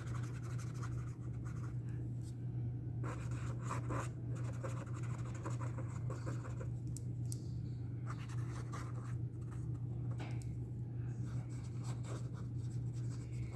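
Acrylic paint pen marker nib scratching and dabbing on the paper in short, irregular strokes, over a steady low hum.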